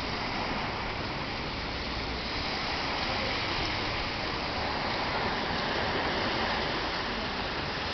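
North Atlantic surf washing on the shore: a steady, unbroken rush of waves.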